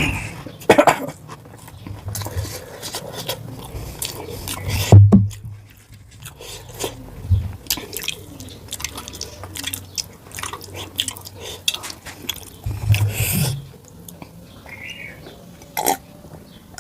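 Close-miked chewing of rice and mutton curry, with many short, irregular wet clicks from the mouth.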